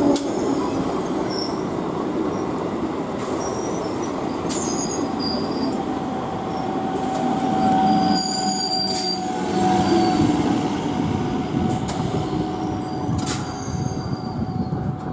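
Electric multiple unit (EMU) local train running past at speed, its wheels rumbling steadily on the rails. About midway a thin, high wheel squeal joins in and holds, from the wheels grinding through the curved track.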